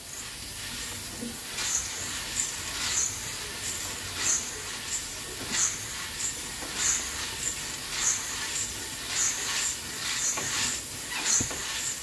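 Coffee beans roasting in an old-style coffee roaster over a wood-fired stove: a steady hiss with a short swish that comes back about once every second.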